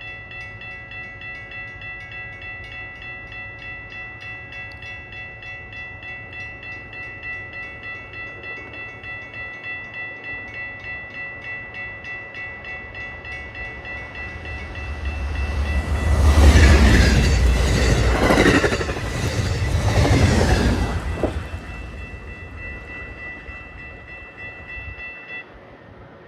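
A railroad crossing bell rings steadily in rapid repeated strokes while a train passes at speed. The train's rumble and rush of wheels swell loudest in two surges about 16 and 20 seconds in, then fade. The bell stops just before the end.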